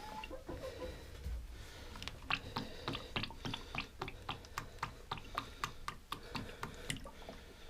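Chickens pecking, a run of sharp, quick taps about three to four a second that starts about two seconds in.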